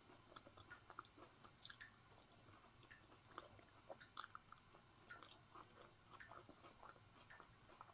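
Faint chewing of a soft apple-filled muffin, with small mouth clicks scattered irregularly.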